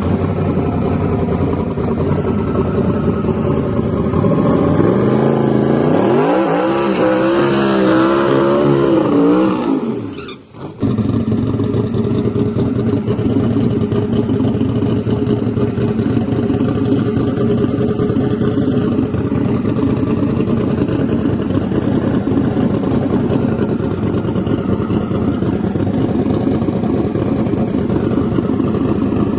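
Turbocharged V8 engine swapped into a Ford Focus, idling, then revved up for a few seconds with a rising note. After a brief dropout it settles back to a steady idle.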